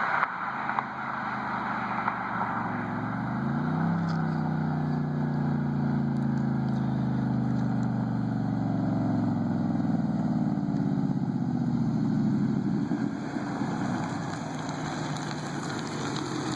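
2007 Chevy Silverado 1500's engine heard through its custom exhaust, revved up a few seconds in, held at a steady higher speed, then easing back down toward idle.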